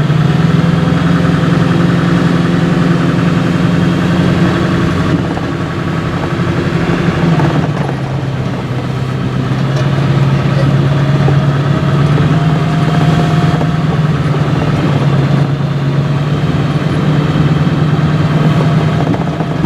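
Truck engine running while driving, heard from inside the cab; the engine note rises in the first second, drops a little about seven and a half seconds in, then holds steady.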